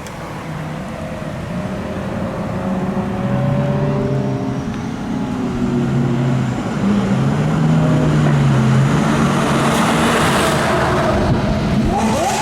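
Lamborghini supercar engine running at low revs, its pitch stepping up and down and growing steadily louder as it nears. Near the end it revs sharply upward.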